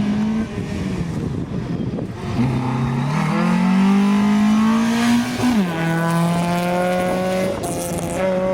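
Rally car engine accelerating hard, its note climbing steadily, then dropping sharply at an upshift about five and a half seconds in and running on at a steadier pitch.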